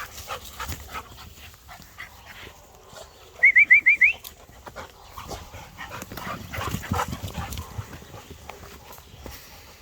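Excited bird dog squealing in a quick run of five short, high, rising yelps about three and a half seconds in, amid scattered rustling and thumps.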